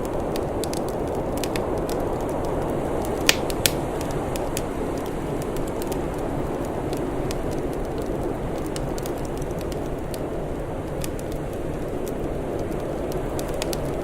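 Wood fire crackling: scattered small snaps, with two sharp louder pops a little over three seconds in, over a steady low rushing noise.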